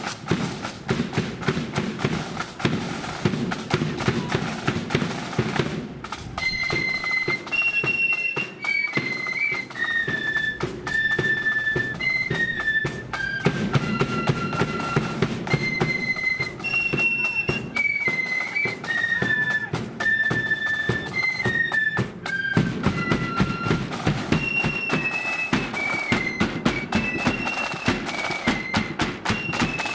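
Marching flute band playing: snare and bass drums beat steadily throughout, and after about six seconds a melody on flutes comes in high above the drumming.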